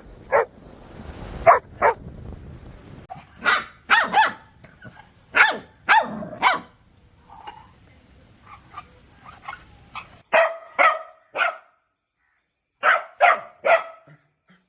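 Puppies barking in short, sharp barks, singly and in quick runs of two or three, across several spliced clips whose background noise changes abruptly at each cut.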